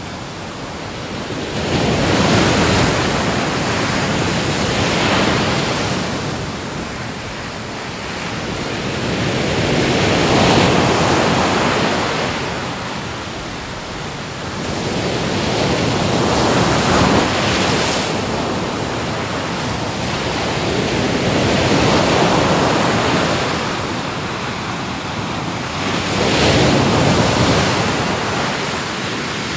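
Ocean surf: waves breaking and washing ashore, a loud rushing noise that swells and eases every few seconds.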